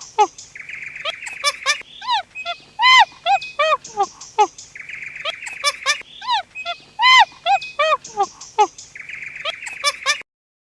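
Animal calls: short, arching chirp-like calls in quick runs, broken by a raspy buzz about a second long. The same sequence repeats about every four seconds, and the sound cuts out just before the end.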